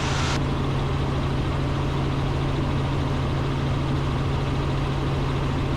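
Robinson R44 Raven II helicopter heard from inside the cockpit in steady cruise flight: an even, unchanging drone of engine and rotors with a strong low hum. A faint higher hiss cuts off shortly after the start.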